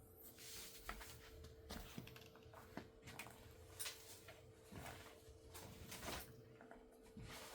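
Near silence: quiet room tone with a faint steady hum and scattered faint clicks and rustles, like light handling of gear.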